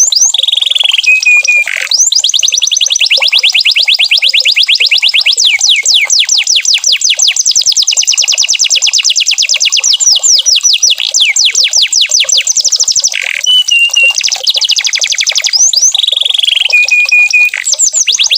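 Domestic canary singing: long, fast trills of rapidly repeated downward-sweeping notes, broken every few seconds by short, steady whistled notes.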